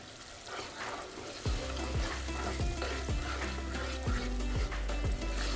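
Tomato sauce sizzling in a frying pan as it is stirred: fresh blended tomatoes just added to tomato paste and garlic frying in oil. Background music with a deep bass beat comes in about a second and a half in.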